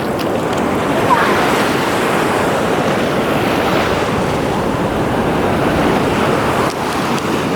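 Steady rush of ocean surf washing onto a beach, mixed with wind on the microphone.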